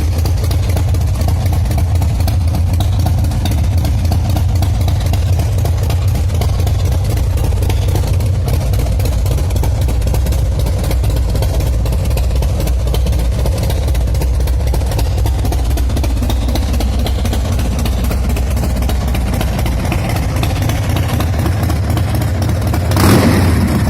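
A 2006 Big Dog Ridgeback's 117 cubic-inch S&S V-twin is idling steadily and running cleanly, with one short throttle blip near the end.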